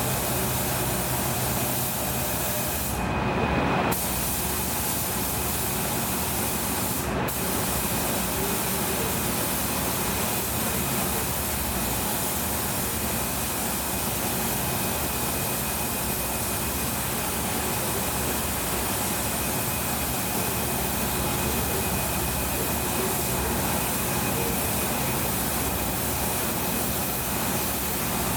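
Air spray gun spraying primer surfacer onto car body panels: a steady hiss of compressed air and atomised paint, with a faint steady whine underneath. The hiss breaks off briefly about three seconds in and again about seven seconds in, as the trigger is let go.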